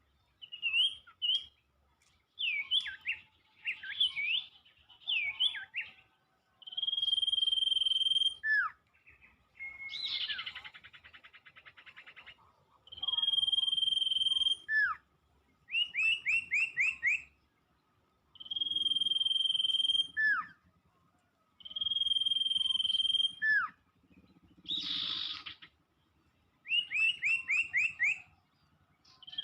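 Bird calls repeated in a regular cycle: a long, steady, high whistle ending in a quick falling slur, alternating with short runs of rapid chirps. This is the kind of call used to lure sirtu birds in Indonesian bird trapping. A short harsh buzz sounds about ten seconds in, and another near the end.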